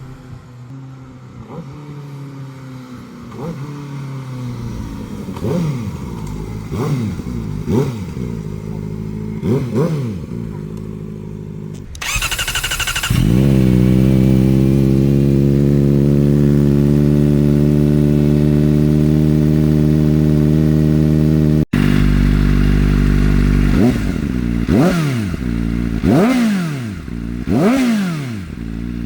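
Kawasaki Ninja ZX-4R's inline-four through a replica Akrapovič slip-on exhaust, idling and blipped with the throttle about five times. About twelve seconds in, with the baffle removed, it idles louder and steady, then is blipped several more times near the end.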